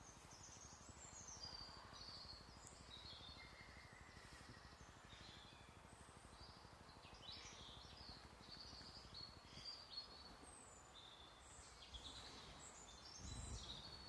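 Faint birdsong: several birds chirping and calling in quick, high notes throughout, over a soft background hiss. A brief low rumble comes near the end.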